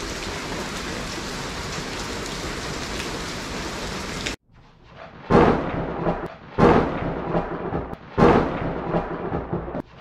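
Heavy tropical rain pouring steadily. It cuts off suddenly about four seconds in, and loud booming hits follow, about one every second and a half, each dying away.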